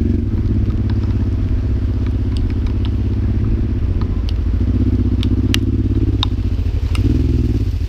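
Honda motorcycle engine running steadily while riding a muddy dirt track, heard through a waterproof camera housing, with scattered sharp ticks.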